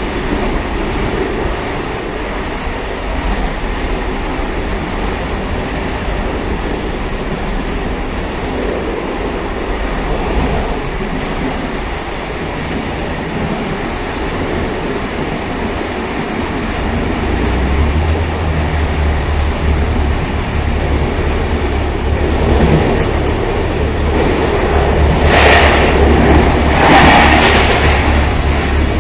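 Railcar running along the track: a steady rumble of wheels on rails, joined a little past halfway by a strong low drone. Near the end, two brief louder rushes of noise come a second or two apart.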